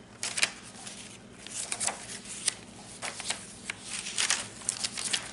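Paper pages and tags of a handmade junk journal rustling as they are handled and turned: a run of short, crisp rustles and flicks.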